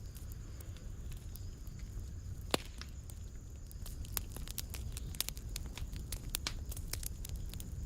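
Wood fire crackling in a fireplace: scattered sharp pops and snaps over a low steady rumble, with one louder pop about two and a half seconds in and the crackles coming thicker in the second half.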